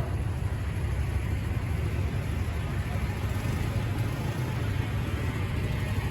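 Distant motorcycles running practice laps on the racetrack, heard as a steady low rumble with a faint engine note rising and falling in the middle.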